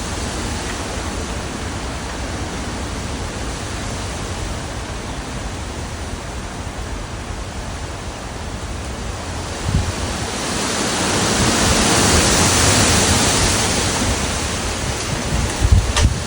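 Strong wind blowing in gusts as a steady rush that swells into a louder gust about ten seconds in. Low thumps of wind hit the microphone at the start of the gust and again near the end.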